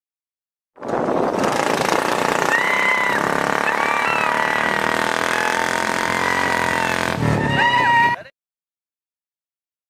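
Motorcycle engines revving hard under load, with shouts over them. The sound cuts in about a second in and cuts off abruptly after about seven seconds.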